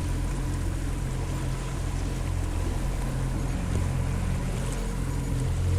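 Boat motor running steadily while under way.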